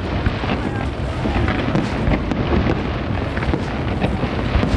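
Aerial fireworks bursting and crackling, many sharp reports scattered over a dense, steady low noise.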